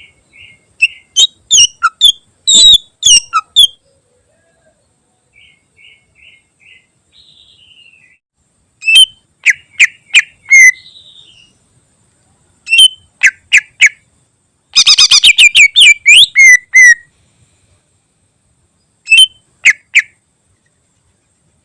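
Green leafbird (cucak ijo) singing loud, sharp whistled notes in short bursts, with soft twitters in the gaps and a fast run of rapid notes about fifteen seconds in.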